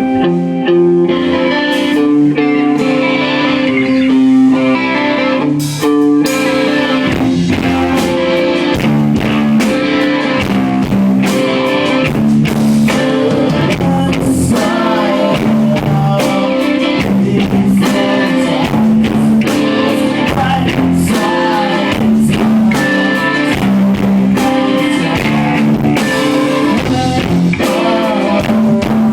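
Live rock band playing: guitars with drum kit, recorded loud from the audience.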